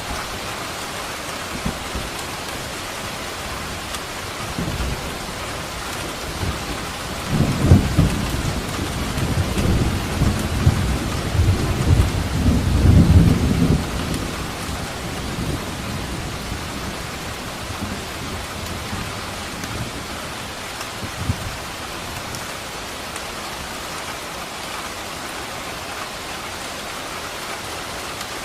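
Steady heavy rain falling, with a rolling thunderclap that builds about seven seconds in, rumbles for several seconds and fades, and a couple of fainter thunder cracks around it.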